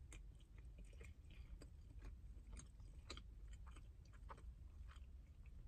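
Faint chewing and mouth sounds, with small irregular clicks and crackles, from a person eating close to the microphone.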